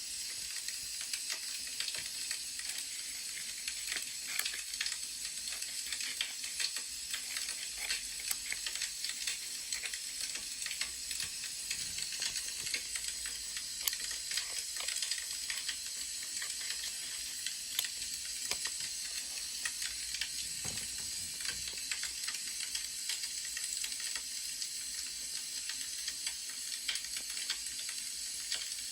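Wood fire crackling: a steady hiss with many small, irregular pops and snaps.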